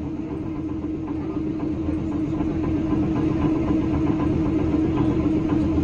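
Inside a New Orleans 900 Series streetcar: a steady electrical hum over a low rumble, growing slightly louder through the stretch.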